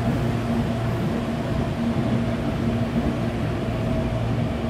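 CPTM electric commuter train moving through the station: a steady electric hum with a few fixed tones over rumbling wheel-on-rail noise.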